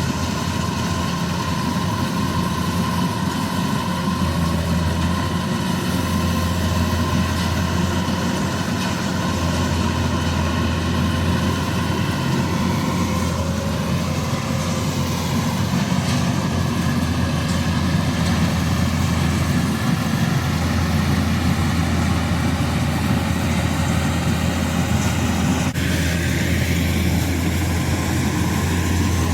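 Combine harvester running steadily in a rice field, a constant heavy engine hum with a steady mechanical whine above it.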